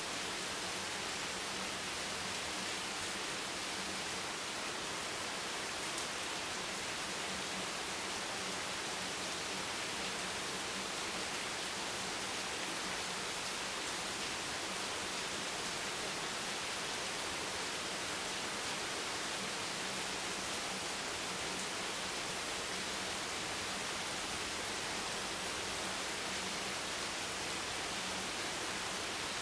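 Steady rain, an even hiss with no distinct drops or thunder standing out.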